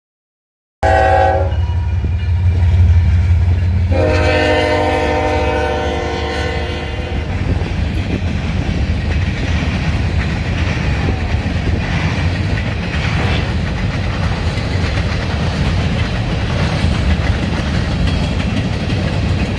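Diesel freight locomotive sounding its horn, a chord of several tones: a short blast about a second in, then a longer blast of about three seconds, over the steady low rumble of its engine. After the horn the rumble and rattle of the passing train go on.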